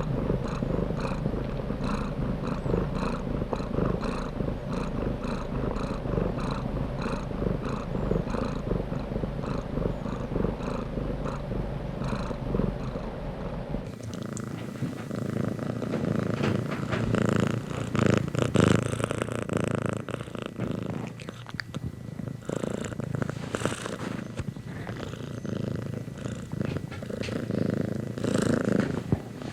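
Domestic cat purring continuously, close up. About halfway through the sound changes abruptly and loses its deepest rumble, becoming more uneven.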